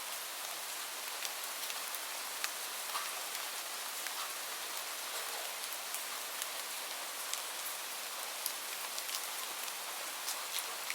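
Steady rain, a dense hiss with many distinct drops ticking on a surface scattered through it.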